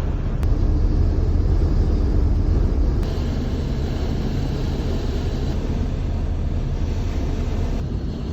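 A van driving on the road: a steady low engine and road rumble with tyre hiss, which gets louder about three seconds in.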